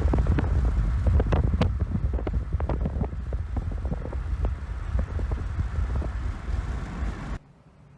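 Loud, steady low rumble with many short clicks and crackles over it, cutting off abruptly about seven seconds in.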